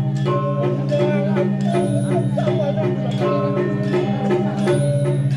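Balinese gamelan playing: metal-keyed percussion strikes a fast, evenly repeating pattern over steady low ringing tones, with a wavering higher melodic line on top.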